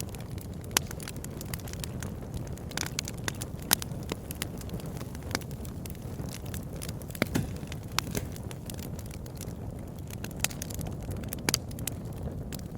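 Campfire burning: a steady low rushing of the flames with irregular sharp crackles and pops of burning wood.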